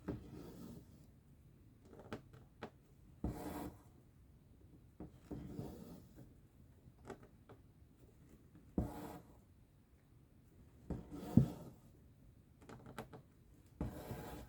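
Cross-stitch needle and thread pulled through fabric: a series of short brushing strokes every second or two, with a few small clicks, the loudest stroke about eleven seconds in.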